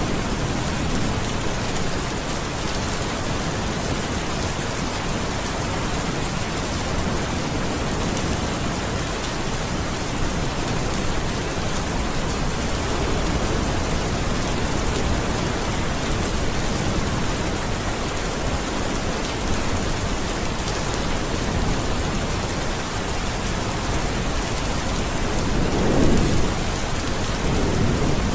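Steady rain falling, with a short low rumble of thunder near the end.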